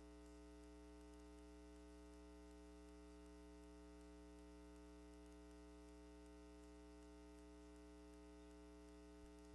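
Faint, steady electrical mains hum with many overtones, with a small click near the end.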